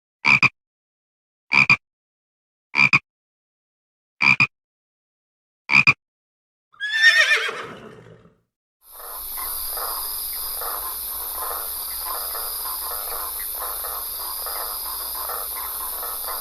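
Five short, identical animal calls about a second and a half apart, then a horse's whinny that falls steeply in pitch with a quaver. After a brief silence a steady, hissy ambience of busy animal chatter begins.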